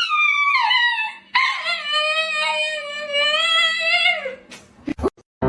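A dog howling: a long howl falling in pitch that ends about a second in, then a second, steadier howl lasting about three seconds. A few short clicks follow near the end.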